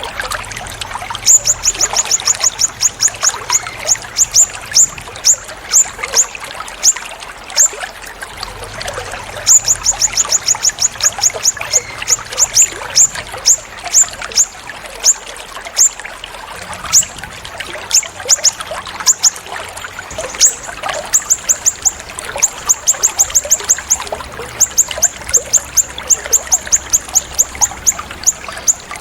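Recorded songbird calls: quick runs of sharp, very high notes, repeated over and over in bursts, over a steady sound of trickling water.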